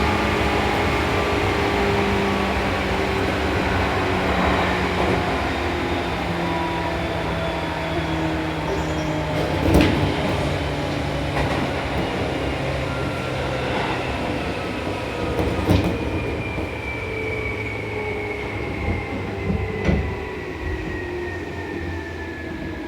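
Seibu New 2000 series electric train heard from inside the car as it brakes into a station. Its motor whine falls steadily in pitch over wheel and track rumble, with a few sharp clacks from rail joints or points about ten, sixteen and twenty seconds in.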